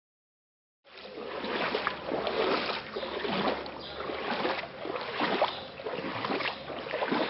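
Floodwater splashing and sloshing irregularly, starting about a second in.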